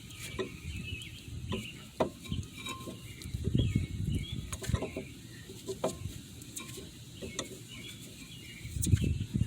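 Brake caliper compressor tool being turned to push the caliper piston back into its bore, with irregular metal clicks and short scraping, creaking bouts, the loudest a little over three seconds in.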